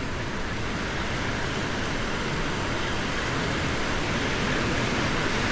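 Steady rush of surf and wind on the beach, the wind buffeting the microphone with a rough low rumble.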